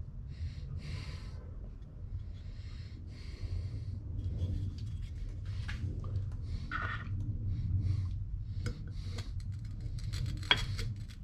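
Metal transmission housing parts being handled and fitted together: light rustling and scraping, then a run of sharp metallic clicks near the end, over a steady low hum.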